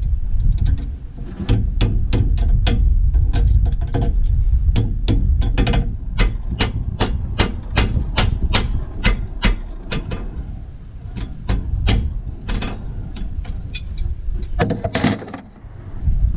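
Farrier's hammer tapping in a long run of sharp strikes, about two or three a second and quickest in the middle, as when nailing on a horseshoe. Wind rumbles on the microphone underneath.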